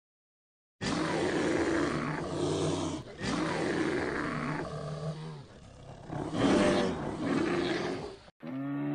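Brown bears growling and roaring as they play-fight in water, in long rough calls with short breaks. The sound starts about a second in and cuts off abruptly near the end.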